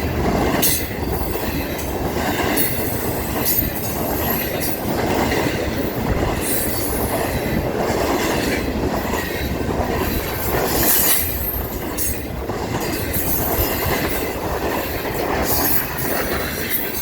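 Intermodal freight train rolling past: a steady rumble of wheels on rail, with clattering and repeated short, high-pitched wheel squeals.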